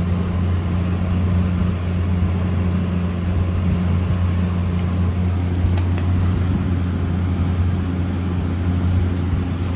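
A steady, loud, low machine hum with a noisy hiss over it, unchanging throughout, and a couple of faint clicks about six seconds in.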